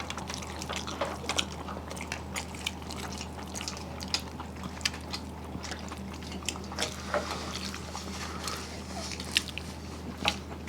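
Close-up eating sounds: chewing and wet mouth clicks and smacks of rice and fried greens being eaten, coming as scattered short ticks over a steady low hum.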